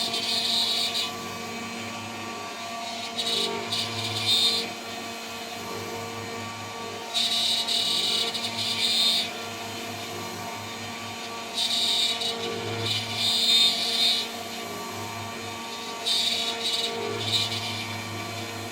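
CNC spindle running steadily at a high speed while a 3 mm three-flute end mill cuts. About every four seconds the cut sets in for a second or two as a louder, high-pitched cutting noise over the spindle's hum, five times.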